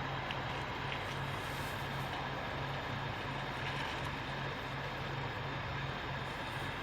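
Truck engine idling steadily: a continuous low hum that pulses slightly.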